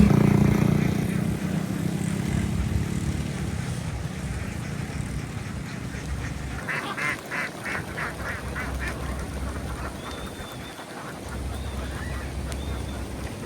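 A flock of domestic ducks quacking, with a quick run of about seven quacks in the middle. An engine is fading away over the first few seconds.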